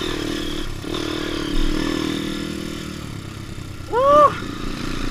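Trail motorcycle engine running steadily at a low, even speed. About four seconds in comes a brief, loud sound that rises and then falls in pitch.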